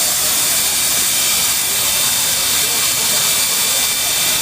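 Steam hissing steadily from the standing NZR Ab-class steam locomotive 608 'Passchendaele', with a few faint steady whistling tones over the hiss.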